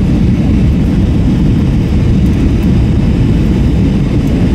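Steady low rumble of engine and airflow noise inside the cabin of an Airbus A321-232 (IAE V2500 engines) in flight, heard from a rear window seat.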